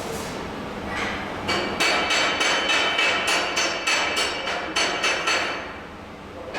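Hammer striking metal in a quick series of blows, about three a second for some four seconds, the metal ringing after each strike.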